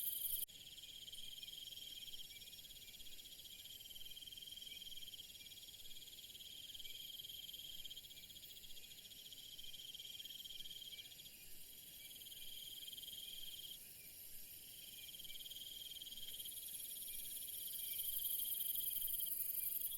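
Insect chorus: a steady, high, continuous trill that drops in level about half a second in and swells back up near the end.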